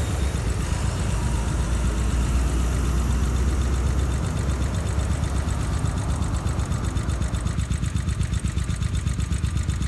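An engine idling steadily, its firing pulses even and rapid.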